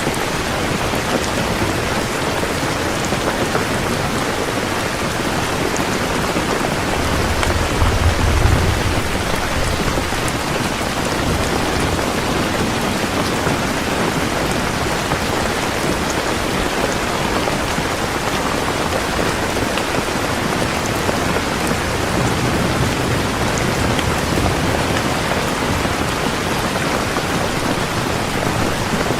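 Heavy rain falling steadily, with a low rumble of thunder swelling about seven to ten seconds in and again, fainter, later on.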